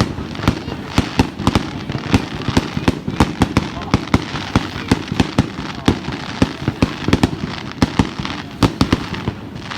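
Fireworks going off: a rapid, continuous string of sharp bangs and pops, several a second, over a steady crackling hiss.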